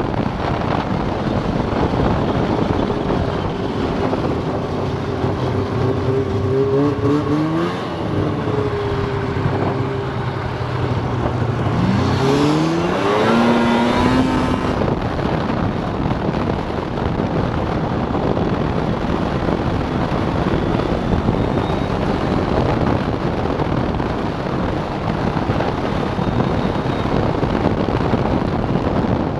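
Snowmobile engine running under a steady rush of wind noise, its pitch climbing twice, about a quarter of the way in and again near the middle.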